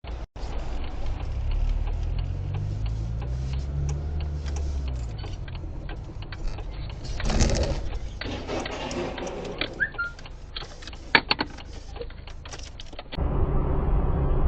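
Vehicle engine running, its low pitch rising and falling in the first few seconds, with many irregular clicks and rattles. The sound cuts about 13 seconds in to a louder, steadier rumble.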